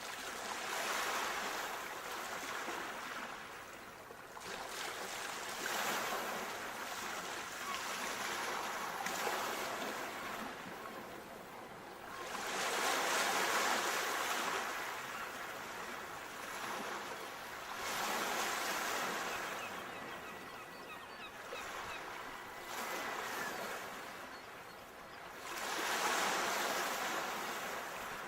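Sea waves breaking, a wide hiss of surf that swells and ebbs in slow surges every few seconds.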